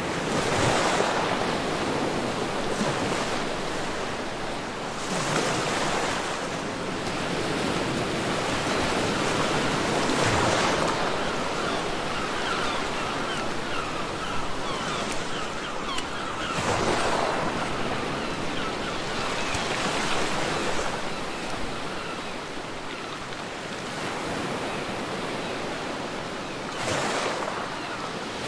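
Sea waves breaking on a beach: a steady wash of surf with a louder wave surging in every few seconds.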